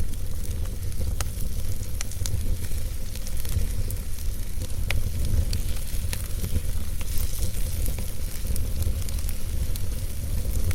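Wood fire burning in a fireplace: a steady low rumble and hiss of the flames with scattered sharp crackles and pops from the burning logs.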